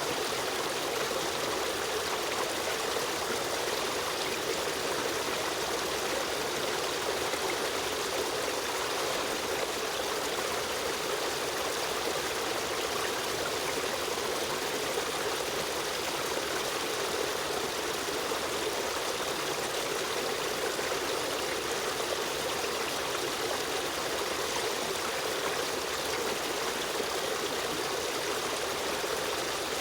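Running water of a stream flowing steadily over rocks, a constant rushing with trickling and gurgling detail.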